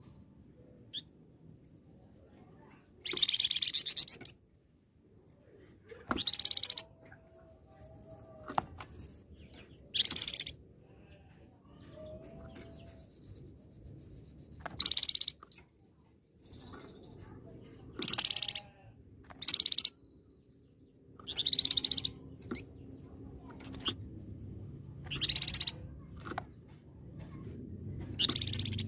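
A flamboyan songbird singing in short, loud bursts of rapid high chatter, about eight in all, each lasting about a second and a few seconds apart.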